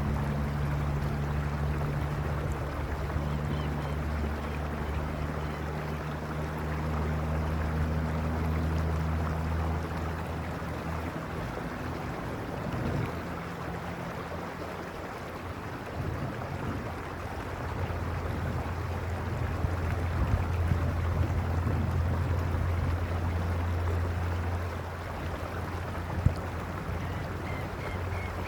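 Stream water rushing and splashing steadily over stones, with a low steady hum underneath.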